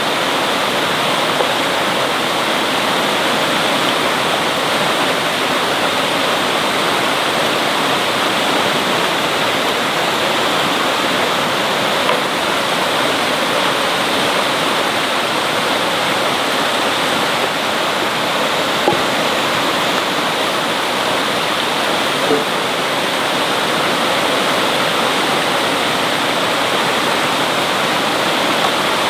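Heavy rain falling steadily, a dense even rushing hiss, with a few small knocks.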